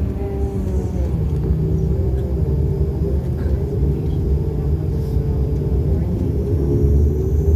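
Inside the cabin of a de Havilland Canada Dash 8 Q400, its Pratt & Whitney PW150A turboprop engines and propellers drone as a low, steady hum of several tones that grows slowly louder.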